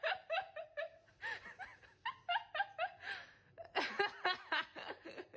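A person laughing in quick repeated bursts, in three bouts with short breaks between them.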